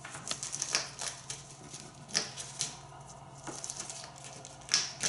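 African grey parrot's beak biting and crunching raw pumpkin: irregular crisp clicks and crunches, the loudest about four and a half seconds in.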